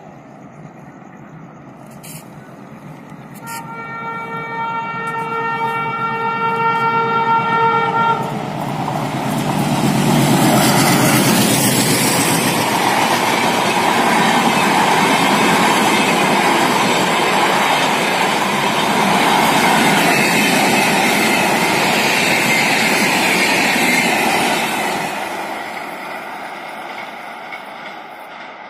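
A train horn sounds once, held for about four and a half seconds. Then the 15547 Jaynagar–LTT Antyodaya Express passes close at speed, a loud steady rush of coaches and wheels on the rails that dies away near the end.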